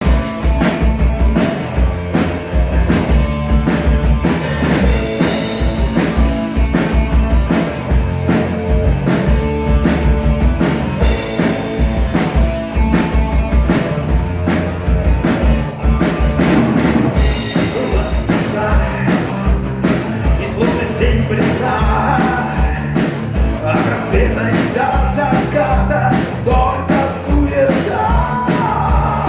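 Rock band playing live, with a drum kit keeping a steady beat under the band; a wavering melodic line comes in over it about two-thirds of the way through.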